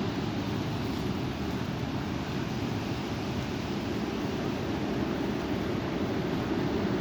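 Strong wind blowing: a steady rushing noise, heaviest as a low rumble, with wind buffeting the microphone.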